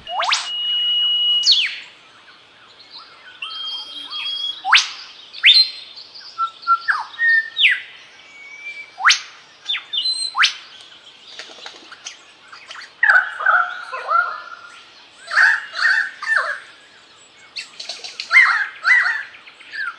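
Superb lyrebird singing a medley of other birds' calls it has copied: a held whistle snapping off in a sharp upward sweep, single steep whip-like sweeps, then faster chattering phrases.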